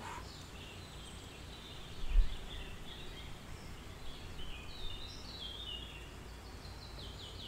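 Small birds chirping faintly, with runs of quick descending notes near the middle and again near the end, over a low steady hum; a single low thump about two seconds in.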